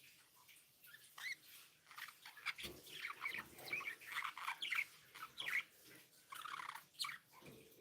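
Budgerigars chirping and chattering in short, quick calls that slide up and down in pitch, growing busier about two seconds in.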